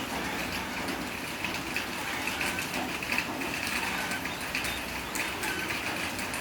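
Fledgling bird's short, high begging chirps repeated many times over a steady background rush, as it is hand-fed.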